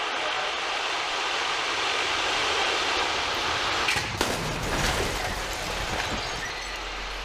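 A rushing noise builds for about three seconds. Then come sharp crashing impacts about four seconds in, with a second hit a second later, as a car strikes a crash-test barrier.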